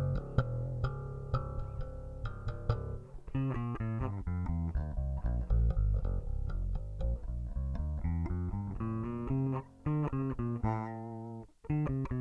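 A 40-year-old Steinberger headless electric string instrument played solo, plucked notes and short runs in a steady stream, with a brief gap near the end. It is intonated properly and in working order.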